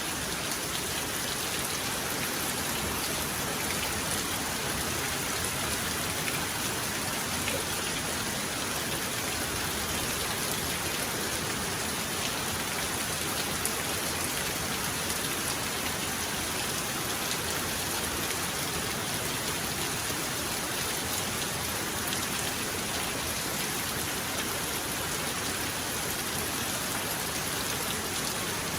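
Heavy rain falling steadily, a dense, even hiss of drops with no thunder heard.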